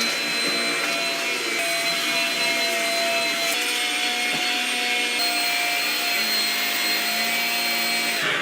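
Shark Rocket stick vacuum running with a steady motor whine, its pitch shifting slightly a few times as it works. Near the end it is switched off and the motor winds down, falling in pitch.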